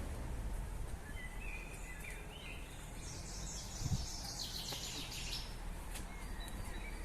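Small birds chirping over steady low outdoor background noise: short chirps early and near the end, and a fast, high twittering from about three to five seconds in. A single soft thump about four seconds in.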